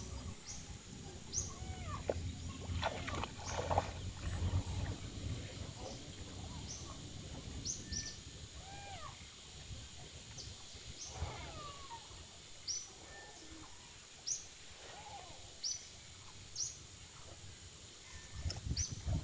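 Birds calling: one bird gives a short, high, falling chirp every second or two, while other birds make softer gliding calls lower down. A low rumble sits under the first few seconds.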